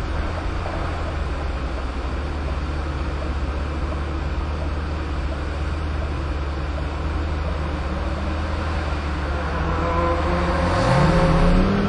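Lamborghini Gallardo's V10 engine idling steadily, heard from inside the cabin. Near the end it revs up, its pitch rising as the car pulls away.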